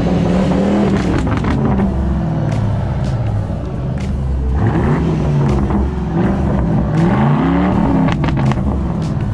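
Car engine revving, its pitch rising and falling several times over a steady low rumble.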